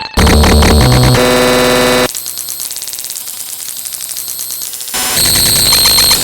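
Harsh electronic buzzing and static: grating synthesized tones that jump between pitches in blocks. They drop to a quieter crackling buzz about two seconds in and come back loud about five seconds in.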